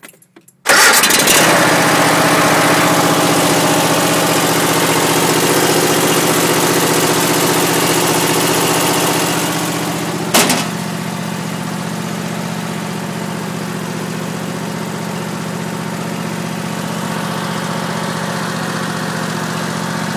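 Troy-Bilt riding mower's engine catching on a cold start with the choke off, then running fast and steady. About ten seconds in there is a click and the engine settles to a slightly quieter steady run.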